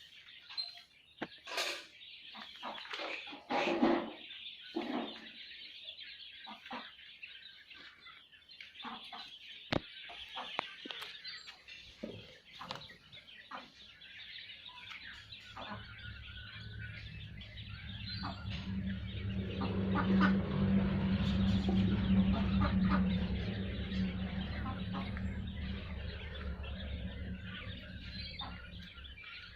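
A flock of Japanese quail calling, with many short chirps and clucks. About halfway through, a low droning hum builds, becomes the loudest sound for several seconds, then eases off.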